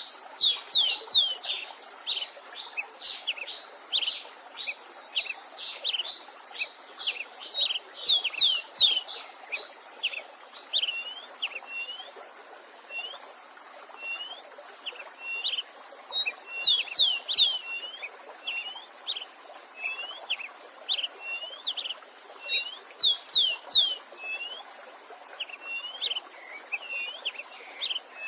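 Wild songbirds singing: quick runs of high, downward-sweeping notes that come back every several seconds, with sparser short chirps between them, over the steady faint rush of a stream.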